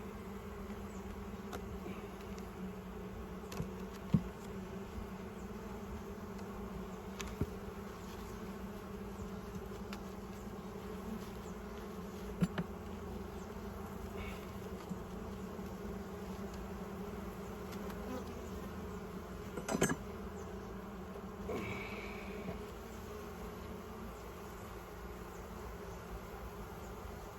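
Honey bee colony buzzing steadily around an opened hive during a frame inspection, with a few sharp clicks and knocks, the loudest about 4 s and 20 s in.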